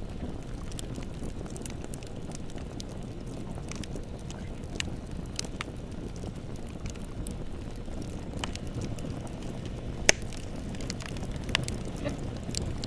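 Bonfire burning: a steady low rumble with scattered crackles, and a sharp, loud pop about ten seconds in.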